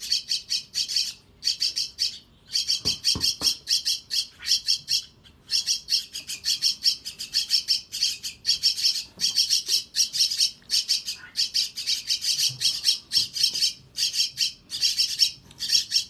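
Crested myna nestlings giving fast, harsh, repeated begging calls in long runs with short pauses: hungry chicks calling for food. A few low knocks sound about three seconds in.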